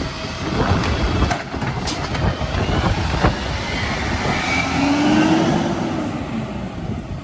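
Garbage truck working, with heavy wind buffeting the microphone, a few knocks, and a faint whine about two-thirds of the way through.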